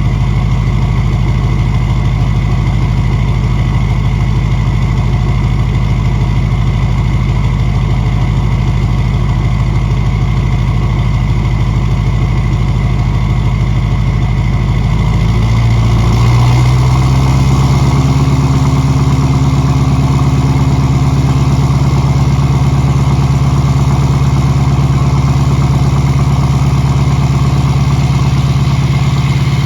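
2006 LBZ Duramax 6.6 L V8 turbodiesel idling through a 5-inch straight-pipe exhaust with no muffler after a cold start. About halfway through, the idle steps up to a higher, slightly louder steady speed: the high idle.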